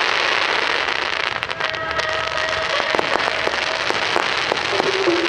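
Fireworks display: a continuous dense crackle with many sharp bangs and pops from exploding shells.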